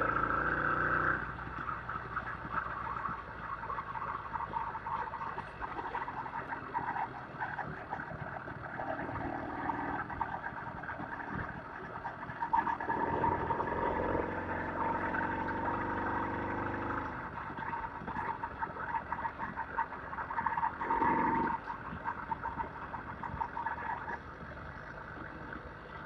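A vehicle's engine running on a ride, its pitch and loudness shifting, with a swell about halfway through and another brief one near the end.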